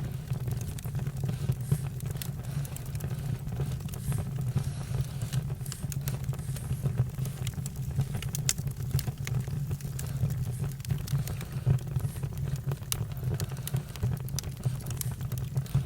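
Campfire burning: a steady low rumble from the flames with frequent sharp crackles and pops from the burning wood.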